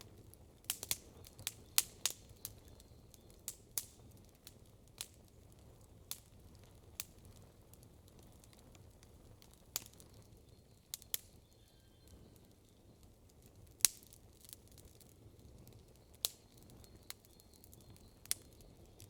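Campfire wood crackling: irregular sharp pops and snaps, roughly one a second, a few much louder than the rest, over a faint steady low background.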